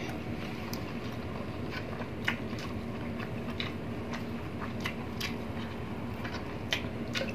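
Close-miked chewing: irregular soft, wet clicks and smacks of mouths eating food, over a faint steady hum.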